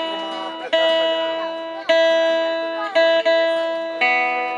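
Guitar chords struck one at a time and left to ring out, a new chord about every second, with two quick strokes close together about three seconds in.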